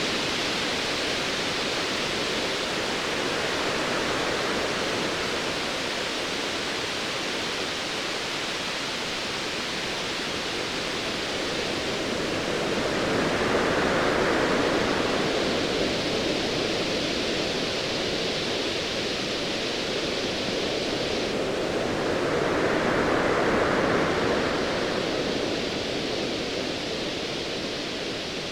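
Ocean waves washing in as a steady hiss, swelling louder twice, about halfway through and again near the end. Partway through, the high part of the hiss suddenly thins.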